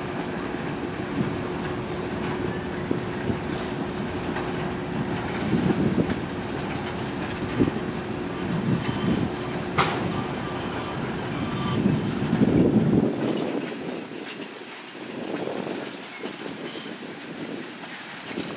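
Freight train of tank cars rolling past, the wheels clacking over rail joints in repeated swells. A steady faint whine runs under it until about two-thirds of the way through, with one sharp click near the middle. The low rumble drops away near the end.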